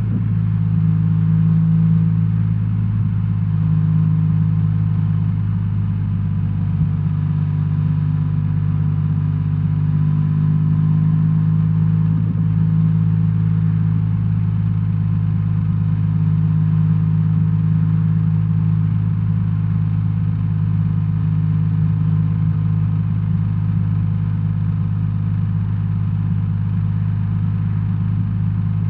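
BMW R1300R motorcycle's boxer twin engine running steadily, with a deep, even note and little change in pitch.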